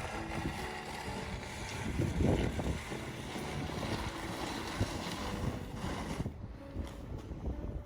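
Wind gusting against the microphone: a low buffeting rumble under a broad rushing hiss that dies away about six seconds in.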